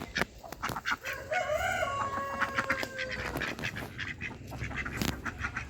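Rooster crowing once, starting about a second in, ending on a long, slowly falling note, with scattered short knocks around it.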